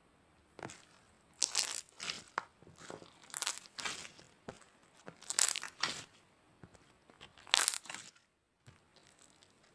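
Slime being squeezed and pressed by hand, giving crackly, crunchy squishes: a loud one about every two seconds with smaller crackles between.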